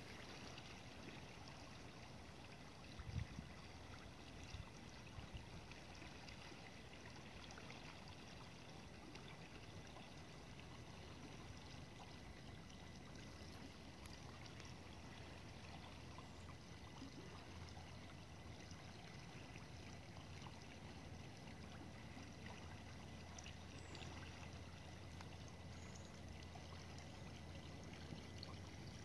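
Faint, steady rush of a small stream flowing, with one soft knock about three seconds in.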